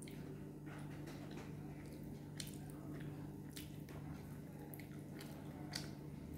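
Close-up eating sounds: a person chewing food, with soft wet mouth clicks and smacks now and then over a steady low hum.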